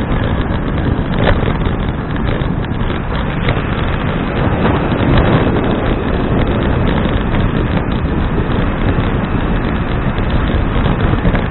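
Steady, loud wind noise buffeting an action camera's microphone while riding a bicycle.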